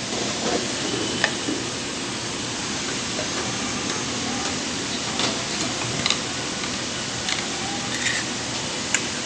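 Scattered light clicks and taps of small metal parts as a sewing machine's presser foot is taken off, over a steady background hiss.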